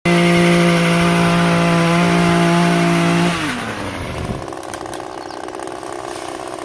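Chainsaw engine running at full throttle, then released about three seconds in, its pitch falling as it winds down to a quieter idle.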